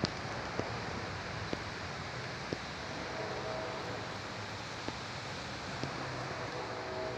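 Heavy wind blowing steadily, with a few scattered sharp clicks and a faint held tone from about three seconds in.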